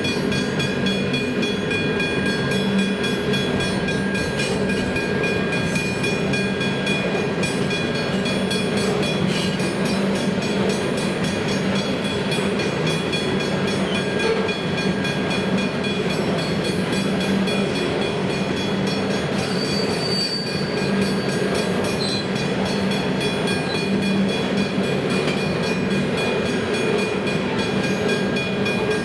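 Loaded coal hopper wagons rolling steadily past at a level crossing, their wheels running continuously over the rails, with steady high ringing tones over the rumble.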